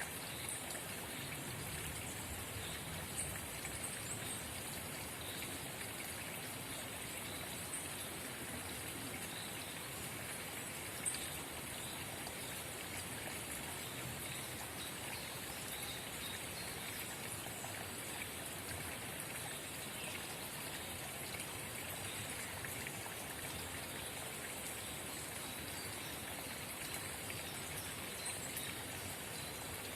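Babbling forest spring: water trickling and gurgling steadily, with a few sharper drip-like ticks, one a little louder about eleven seconds in.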